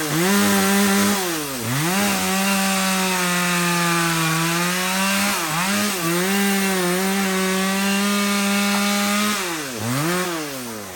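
Two-stroke chainsaw running at high revs, cutting wood. The engine note drops sharply and climbs back a few times, twice in quick succession near the end.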